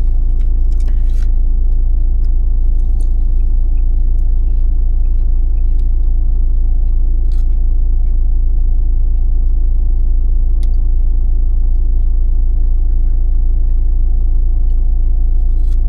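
A vehicle's engine running steadily as a constant low rumble, with a few faint light clicks over it.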